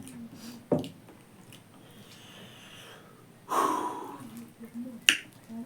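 Close-miked eating sounds of a person eating pork: a sharp mouth smack about a second in, a short breathy noise in the middle, and another sharp smack near the end.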